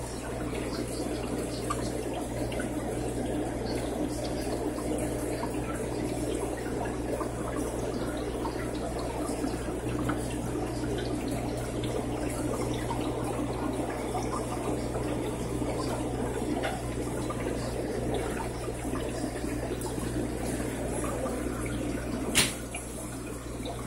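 Aquarium water circulating and splashing steadily, with a low steady hum from the tank's pump or filter. A single sharp click about twenty-two seconds in.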